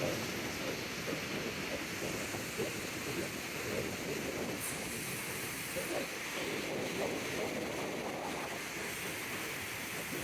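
Loud, steady rush of water by the reservoir dam, mixed with wind on the microphone.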